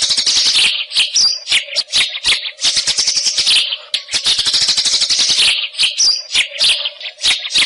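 White-rumped shama (murai hutan) singing a loud, continuous stream of rapid, varied chirps, trills and whistles, used as song material for training contest birds.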